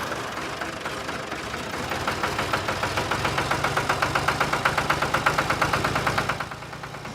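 An engine running with a fast, even chugging that grows stronger through the middle and drops off about six and a half seconds in.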